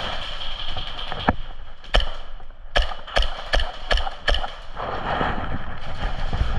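Airsoft gun firing single shots, about seven sharp snaps roughly half a second apart, followed by rustling movement near the end.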